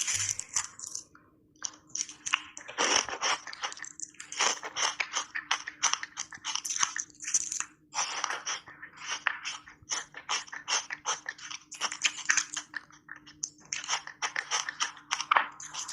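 Close-up crunching and chewing of button-shaped ice cubes coated in matcha powder: bursts of rapid sharp crackles as the ice is bitten and ground between the teeth, with brief pauses between mouthfuls.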